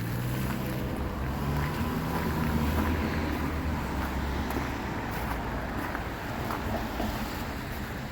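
A vehicle engine running with a steady low rumble, its pitch shifting a little about a second in, with wind noise over it.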